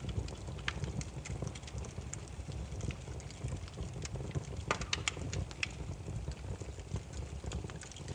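Burning firewood crackling: irregular sharp pops and snaps over a low steady rumble of the flames, with a quick run of pops about five seconds in.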